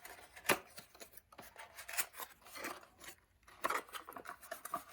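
Irregular clicks, scrapes and rustles of packaging and plastic parts being handled as a new vacuum cleaner is unboxed.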